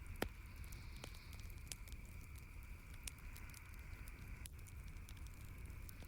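Wood campfire crackling: irregular sharp pops and ticks, the loudest just after the start, over a steady low rumble and hiss.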